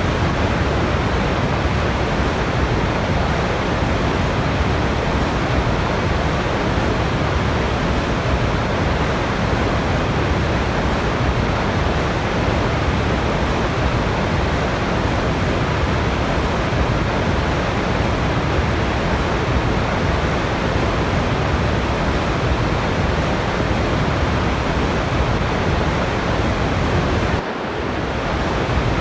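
Waterfall: falling water rushing in a steady, even wash of noise, dipping briefly in level about a second and a half before the end.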